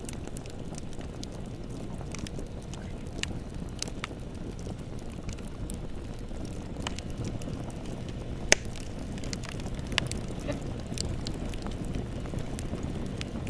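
Bonfire burning with a low steady rumble and frequent irregular crackles and snaps, two louder pops about two-thirds of the way through.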